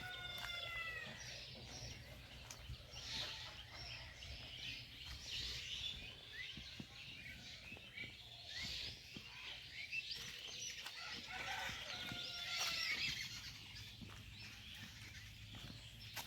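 Birds calling: a few short calls falling in pitch, near the start and again a little past the middle, over many short high chirps throughout.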